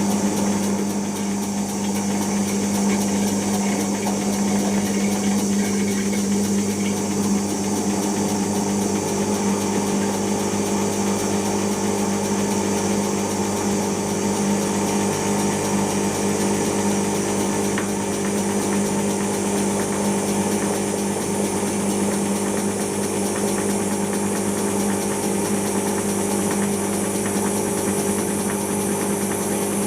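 Siemens iQ washing machine in its intermediate spin, drum and motor spinning at speed with a steady hum and a high whine that edges slightly upward in the second half as the spin builds toward 1000 rpm.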